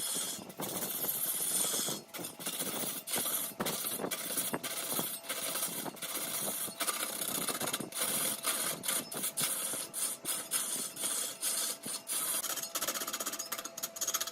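Large woodworking lathe running while a cutting tool shaves a spinning mahogany workpiece: a rasping cutting noise over a faint steady hum, broken by frequent brief gaps.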